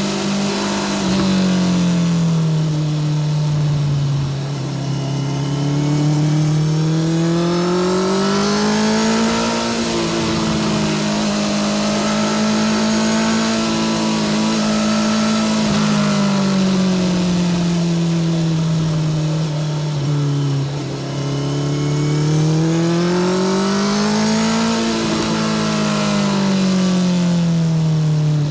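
Honda CBR650R's inline-four engine through a Spark full titanium short exhaust, under way: the revs rise and fall in long smooth sweeps, climbing twice to a high-pitched peak and easing back down.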